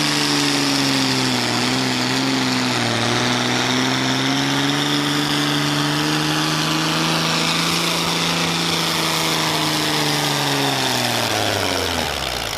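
Competition pulling vehicle's engine running hard at high revs under load, its pitch steady apart from a brief dip about two seconds in, then falling away near the end as the engine is shut down at the end of the pull.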